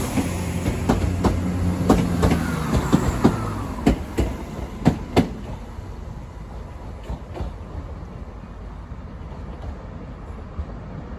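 ScotRail Class 170 Turbostar diesel multiple unit pulling away. Its engine drone fades within the first few seconds, and its wheels clack over rail joints and points, the clacks growing fainter as the train draws away.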